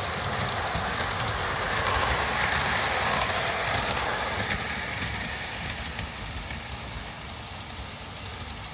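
O-scale model train running along the track, its wheels rumbling with scattered clicks over the rail joints. It grows loudest about two seconds in, then fades as it moves away.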